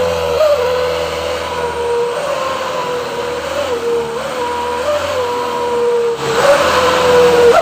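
Box truck's engine running through a 'serigala' (wolf) exhaust, which gives a steady howling tone that wobbles slightly in pitch a few times. About six seconds in, the engine noise swells louder under the howl.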